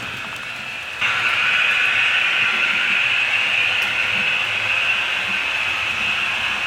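HO scale model train running on the layout: a steady whirring hiss of motor and wheels on track that jumps suddenly louder about a second in.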